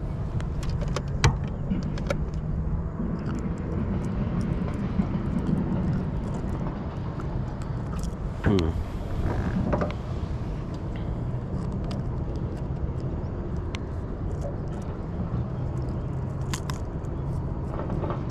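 Steady low rumble with scattered clicks and knocks of fishing gear being handled in a boat while a small freshwater drum is landed; a louder brief rustle with a falling tone comes about halfway.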